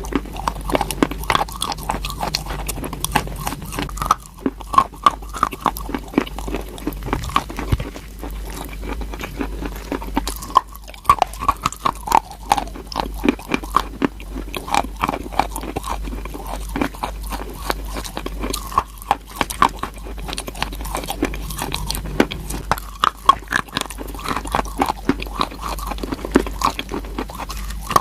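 Close-miked biting and chewing of crunchy chalk: a steady, dense run of crisp crunches and crackles as pieces are bitten off and ground between the teeth.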